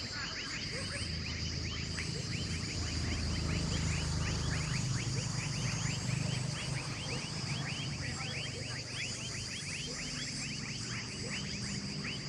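A chorus of animal calls: rapid, short falling chirps repeated several times a second over a steady high-pitched drone and a low rumble.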